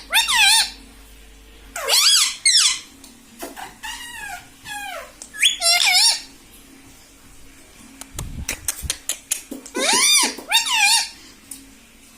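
Indian ringneck parrot calling: bouts of high, squeaky chirps that swoop up and down in pitch, about five bouts with short pauses between them.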